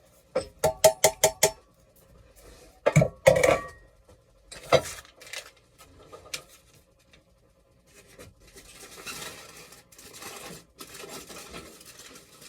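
Cookware and utensils clinking and knocking: a quick run of about six ringing metallic clinks, then a few heavier knocks. After that comes a softer rustling and scraping.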